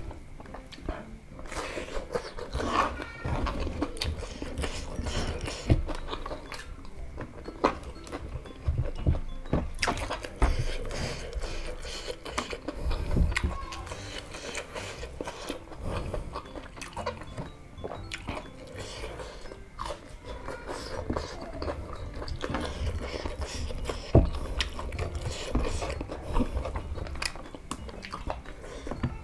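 Close-up mouth sounds of a person chewing crispy breaded chicken nuggets in chili sambal with rice, with irregular wet smacks and clicks.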